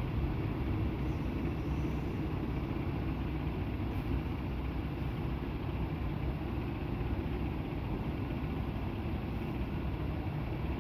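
Semi-truck diesel engine running, a steady low-pitched drone with no change in pace.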